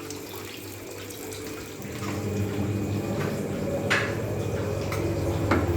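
Restaurant kitchen exhaust hood fan switched on for a test run after servicing: a motor hum with rushing air that grows louder about two seconds in, then runs steadily.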